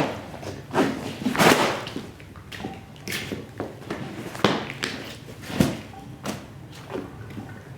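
Repeated swishing strokes with dull thuds from a cleaning tool worked over a wet, muddy shag rug, about ten uneven strokes.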